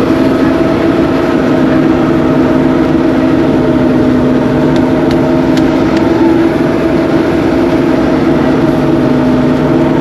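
Engine-driven rice threshing machine running steadily at a constant speed.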